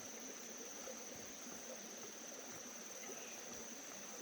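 Insects chirring in one steady high-pitched drone, with a few faint knocks underneath.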